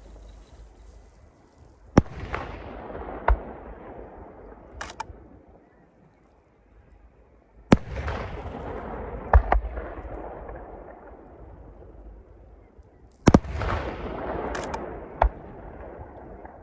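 Fireworks bursting: sharp bangs in three groups about five to six seconds apart, each followed by a long rumbling echo that fades away, with a few lighter cracks in between.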